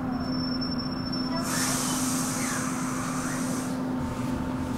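Roslagsbanan light-rail commuter train running: a steady hum over low rumbling. About a second and a half in, a hiss comes in and lasts about two seconds before dropping away.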